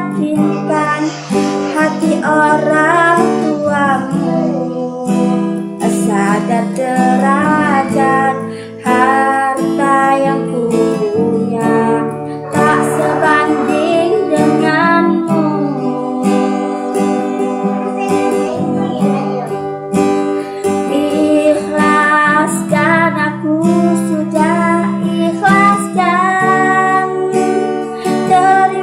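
A woman singing a melody to acoustic guitar accompaniment.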